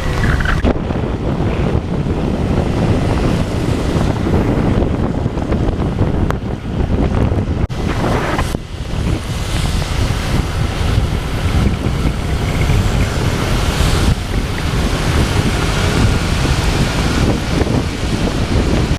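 Wind buffeting the microphone over a steady hiss of heavy rain and wet road noise while riding a motorbike through a downpour.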